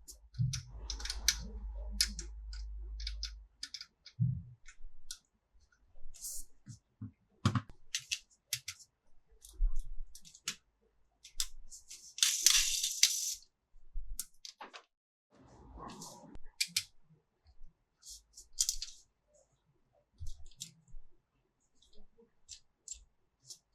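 Small plastic toy pieces being handled, with irregular clicks, snaps and taps, and a brief rustle of packaging about twelve seconds in.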